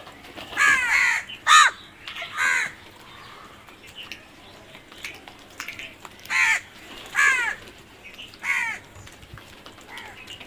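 Crows cawing: six harsh caws in two groups of three, the first group in the opening seconds and the second a few seconds later.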